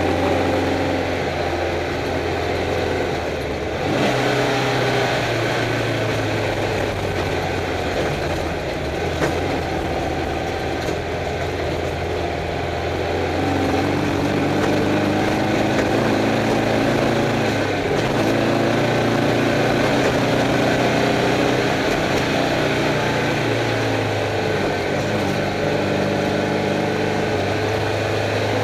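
Stock air-cooled Volkswagen Beetle flat-four engine of a Class 11 desert race car, heard from inside the car under way. The revs rise and fall repeatedly over a constant noisy rumble.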